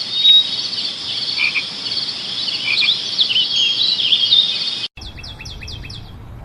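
A dense chorus of birds chirping and calling over a steady high trilling of insects or frogs. About five seconds in it cuts abruptly to a different recording: a run of quick, sharp bird chirps over a low rumble.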